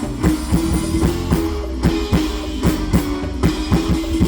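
Live band playing up-tempo soca music with no vocals: a steady drum beat at about two and a half hits a second under a held bass note.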